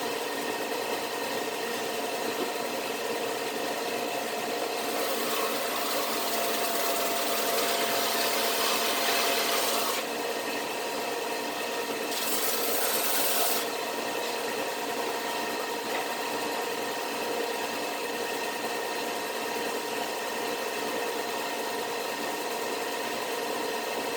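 A woodworking power tool runs steadily with a motor hum. Twice a piece of firewood is pressed into it, giving a rasping hiss, first for about five seconds and then for about a second and a half.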